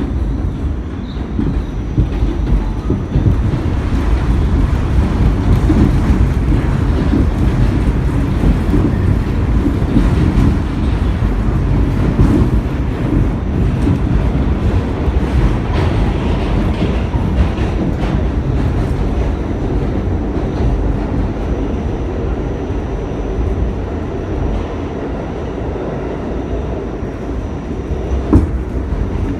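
R46 subway train running between stations, heard from on board: a loud, steady rumble of wheels on rail with frequent clicks and knocks, and a faint steady high whine.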